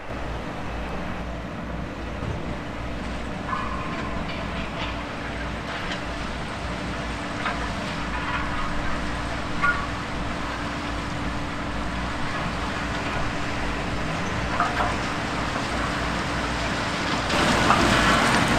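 Heavy sugar beet harvesting or loading machinery running: a steady diesel engine drone with scattered metallic clanks and rattles, growing louder near the end.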